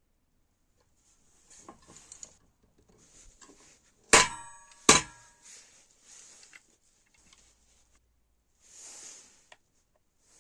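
Two sharp metallic clanks a little under a second apart, each ringing briefly, among quieter handling and scraping of metal parts on a workbench.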